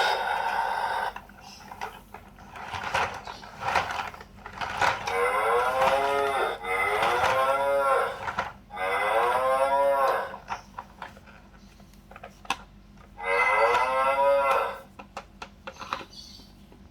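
Electronic cow moo sound effects played through the small speaker of a Fisher-Price Little People Tow 'N Pull Tractor toy, four moos each over a second long. Clicks between them from the toy being handled or its buttons pressed.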